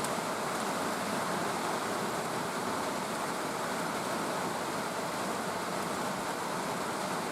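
Steady rain falling: an even, unbroken rush of rainfall.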